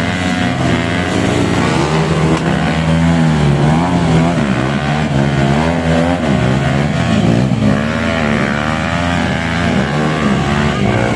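Honda CRF dirt bike engine revving up and down again and again, labouring as the bike struggles to climb a steep slope.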